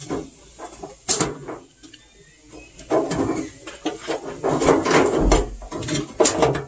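Handling noise from a washing machine's parts: a sharp knock about a second in, then a few seconds of clattering and rubbing as the lid switch and its taped wiring are pushed back inside the cabinet.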